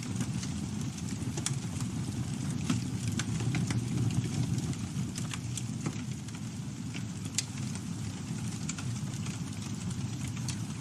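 Campfire burning: a steady low rumble of flame with frequent sharp crackles and pops from the burning wood.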